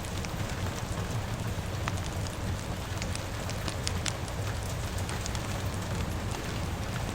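Rain and fire ambience: steady rainfall with a low rumble, and many small sharp crackles and pops scattered through it.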